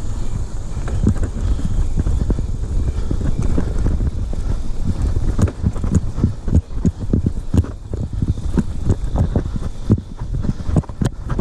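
Riding over a rough trail: irregular knocks and clatter over a steady low rumble.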